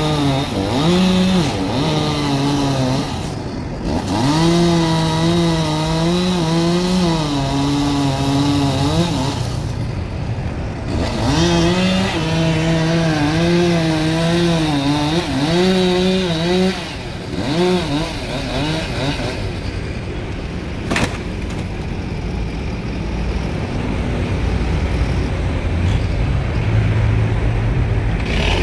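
Two-stroke chainsaw cutting through a tree trunk, its engine pitch wavering up and down as the chain bites into the wood and is eased off, falling back briefly twice. There is one sharp knock about two-thirds of the way in, and the engine settles to a lower, steadier note near the end.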